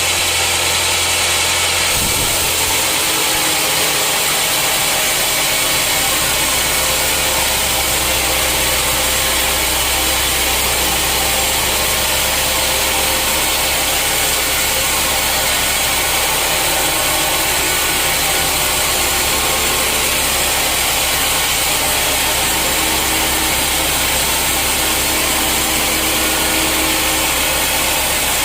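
Sawmill machinery running steadily: a loud, even machine noise with a constant hum. The low part of the hum changes pitch a few seconds in.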